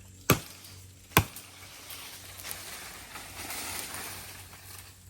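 Two sharp knocks, then a few seconds of swishing and splashing as a dip net is swept through shallow water.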